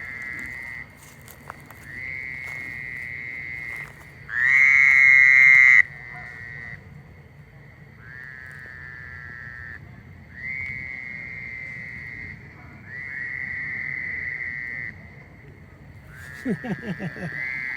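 Small frogs calling at night: a string of high, fast trills, each lasting one to two seconds, one after another and sometimes overlapping, with the loudest trill about four seconds in.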